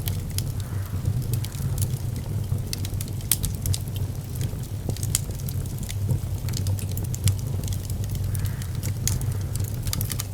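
Wood fire burning in a fireplace, crackling with many sharp, irregular pops and snaps over a steady low rumble.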